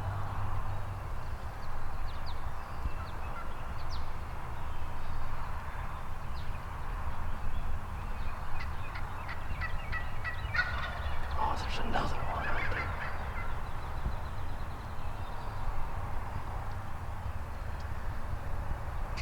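Wild turkey gobbling: a rapid rattling gobble a little past the middle, over steady low outdoor background noise.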